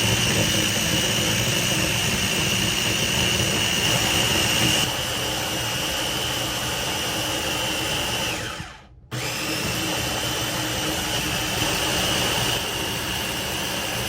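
Countertop blender running, blending a spinach, pineapple and mango smoothie with coconut water, with a steady high whine. About eight seconds in the motor winds down and cuts out briefly, then starts up again.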